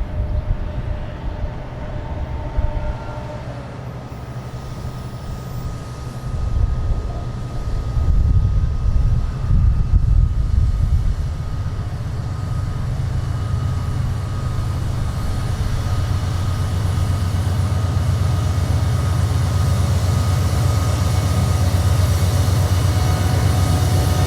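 Freight train running by with a heavy low rumble, loudest for a few seconds about a third of the way in, then a steady rumble that builds slowly towards the end.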